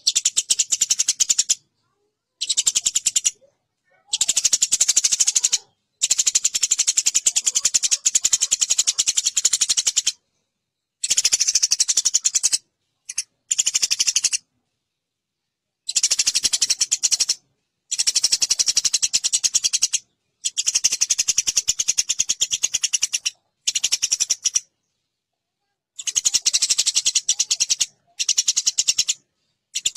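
Eurasian tree sparrows fighting: fast, dense chattering calls in bouts of one to four seconds, broken by short silent gaps.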